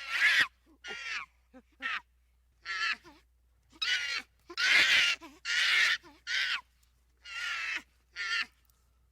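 A bird calling, a series of about ten short harsh calls spaced under a second apart.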